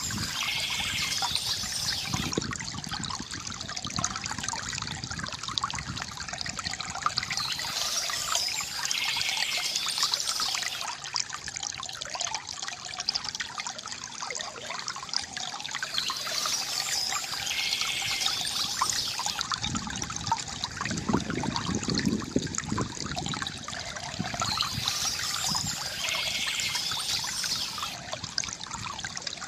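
Shallow stream trickling and babbling steadily, with short spells of birdsong coming back about every eight to nine seconds.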